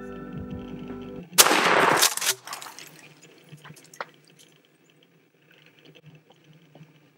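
Background music cuts off about a second in, followed by a single loud shotgun blast that rings out for nearly a second as it echoes away; faint rustling and ticks follow.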